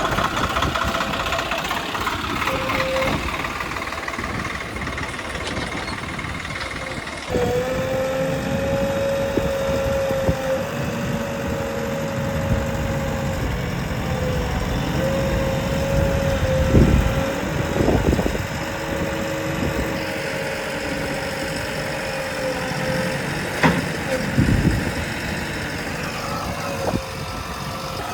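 Heavy diesel machinery engines running during a mud recovery, a steady engine noise that changes abruptly about seven seconds in. After the change a steady high whine runs alongside the engine, with a few short knocks later on.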